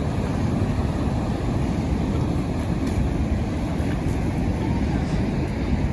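Niagara Falls' water pouring down: a steady, low, rushing noise with no breaks, with wind buffeting the microphone.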